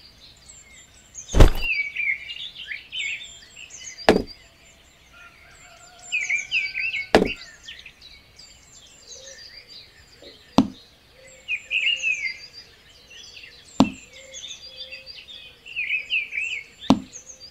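Six sharp taps a few seconds apart as card and popsicle-stick pieces of a miniature house are set down on its base, with small birds chirping behind.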